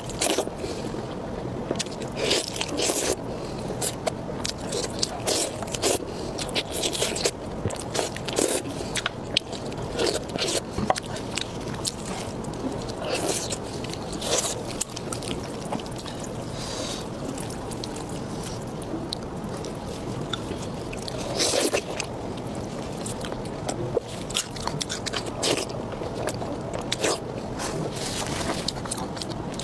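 Close-miked eating: a person chewing and biting food, with many short irregular clicks from the mouth and food throughout.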